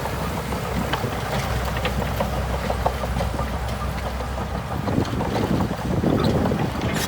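Heavy construction machine's diesel engine running steadily, with wind on the microphone. A rougher, louder rumble comes in about five seconds in.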